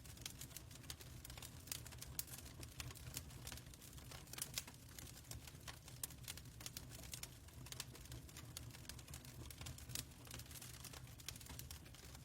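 Fireplace crackling: irregular sharp pops and snaps over a soft, steady low rumble.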